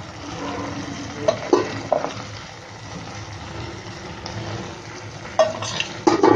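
Vegetables and field beans frying in a clay pot with a steady sizzle, while spoonfuls of chilli powder are tipped in. A spoon knocks against the pot a few times about a second in and again near the end.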